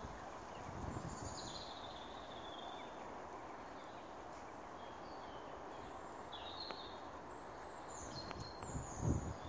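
Steady outdoor background hiss with small birds chirping several times in short gliding calls. A few low thumps come near the end.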